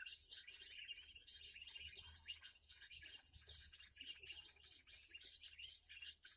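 Faint, rapid high-pitched chirping of small birds: a dense, unbroken run of short twittering notes.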